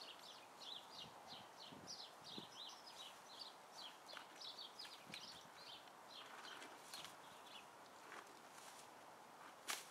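Faint small songbird calling: a quick run of short, high chirps, each sliding downward, about three or four a second, dying away after about seven seconds. A single sharp click just before the end.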